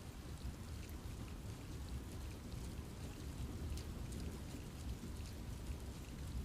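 Steady rain falling in a forest, with many separate drops pattering over a constant low rumble.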